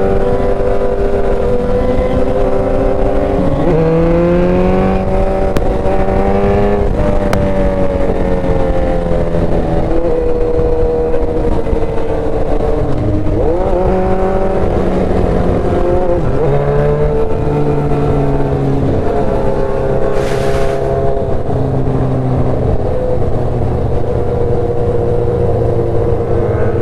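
Motorcycle engine running while riding. Its pitch climbs, then drops several times as it shifts up, over a heavy low wind rumble on the microphone.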